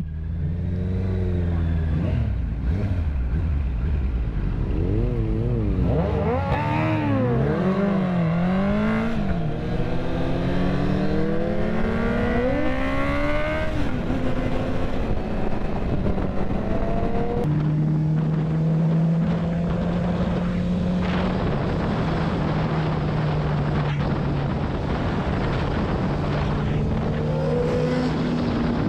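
Inline-four motorcycle engine under way. Its pitch wavers up and down for the first several seconds, then climbs in long rising sweeps that each drop back at a gear change. For the second half it settles to a steady note, over a steady rushing noise.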